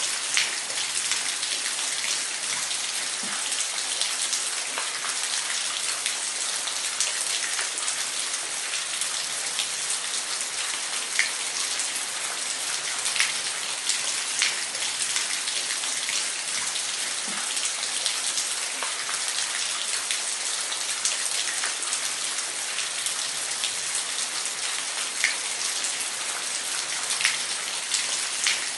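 Waterfall: a steady hiss of falling water with scattered sharp splashes of single drops.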